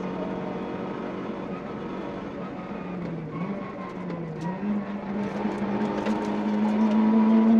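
Citroën Saxo VTS's 1.6-litre 16-valve four-cylinder engine running hard, heard inside the cabin. Its pitch dips briefly twice around the middle, then holds high and grows louder near the end, with scattered faint ticks.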